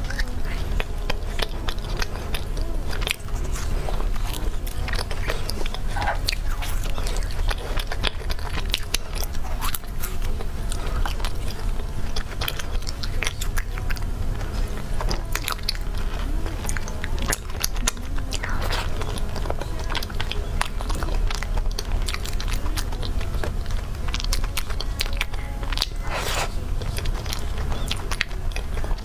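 Close-miked eating of cake: biting and chewing, a dense run of small clicks and mouth sounds, over a steady low hum.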